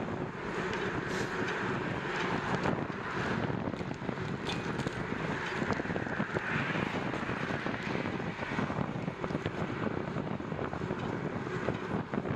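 Wind buffeting the microphone on a moving bicycle: a steady rushing noise that swells and eases with the gusts.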